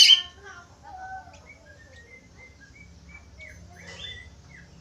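Budgerigars chirping and warbling: a loud burst of harsh chirps at the start, then a run of short whistled notes and chirps, with another small flurry about four seconds in.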